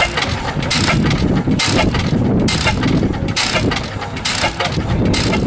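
1915 International Titan 10 hp throttle-governed stationary engine running steadily, with a regular beat about once a second over a continuous mechanical clatter.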